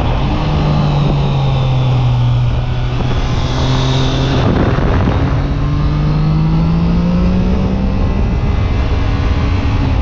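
Triumph Trident 660's three-cylinder engine pulling on the road, with the typical Triumph triple growl. The pitch eases down for the first few seconds, breaks briefly about halfway, then rises steadily as the bike accelerates and holds near the end.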